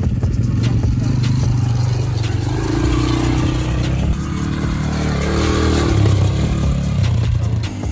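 Dirt bike engine running and revving, its pitch rising and falling a few times.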